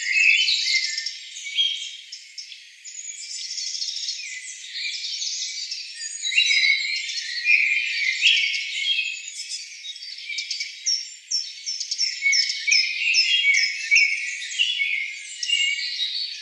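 Many small birds chirping and twittering at once, a dense overlapping chorus of high chirps and short falling notes with no low sounds underneath.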